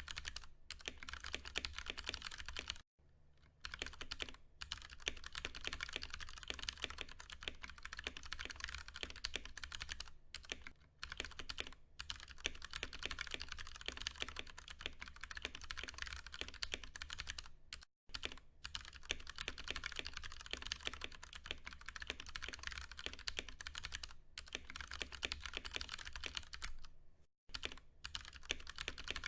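Fast, continuous typing on a Ducky One 2 Mini mechanical keyboard with tactile Cherry MX Brown switches: a dense patter of keystrokes, broken by brief pauses about three seconds in, about eighteen seconds in and near the end.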